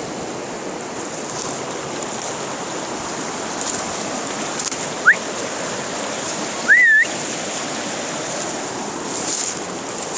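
River water rushing steadily. Two short rising whistles cut through it, one about five seconds in and a louder one that rises and wavers just before seven seconds.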